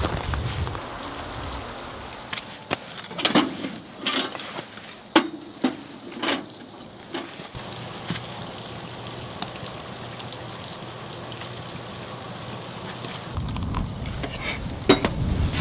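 Steady hiss, with low wind gusts rumbling at the start and again near the end. A run of sharp knocks and clicks comes a few seconds in.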